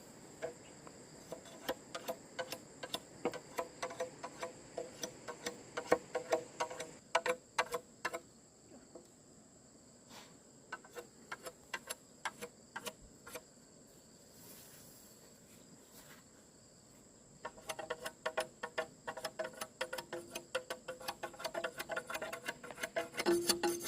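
Steady high-pitched insect shrilling, with many irregular sharp taps and knocks over it that come in clusters, thinning out in the middle and growing dense again near the end.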